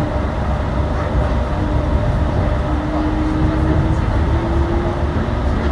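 Yurikamome rubber-tyred transit train running, with a steady rumble and a motor whine that rises slowly in pitch as the train gathers speed.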